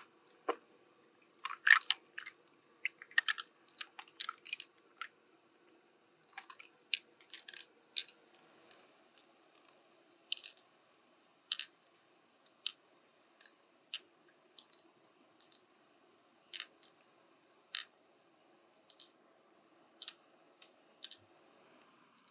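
Sharp clicks and crunches of hard shell being handled, a quick irregular cluster over the first several seconds, then single clicks about once a second.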